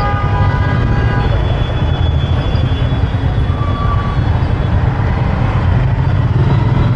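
Road traffic heard from a moving motorbike: a steady low rumble of engine and road noise, with a vehicle horn sounding for about the first second.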